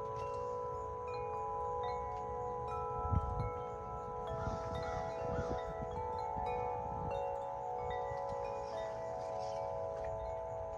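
Large Corinthian Bells wind chimes, 50-inch and 36-inch, ringing in strong wind: deep, long-sustaining overlapping tones as new tubes are struck every second or so. Gusty wind rumble on the microphone underneath, strongest about three seconds in.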